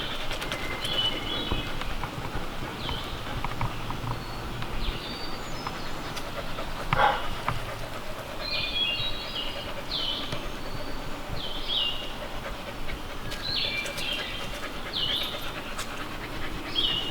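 Dogs panting heavily, warm from a steep uphill hike, with short high bird chirps repeating over them.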